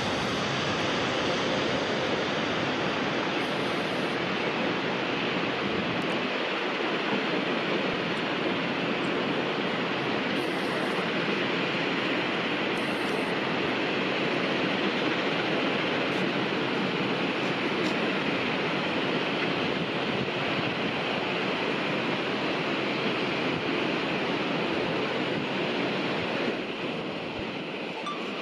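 Steady rushing roar of a jet airliner's engines with no distinct tone, easing off near the end.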